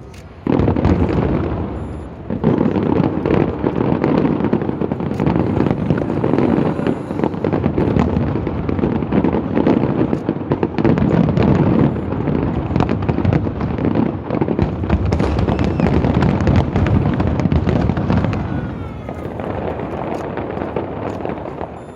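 Fireworks display: a dense, continuous barrage of bangs and crackles that starts suddenly about half a second in and dies down near the end.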